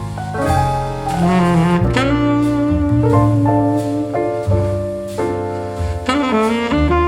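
Jazz music with a saxophone carrying the melody over piano and a walking double bass.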